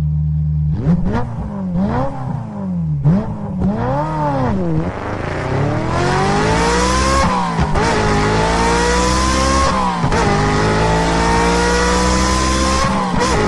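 Sportbike engine blipped through several quick revs, then pulling away hard, its pitch climbing steadily through four gear changes.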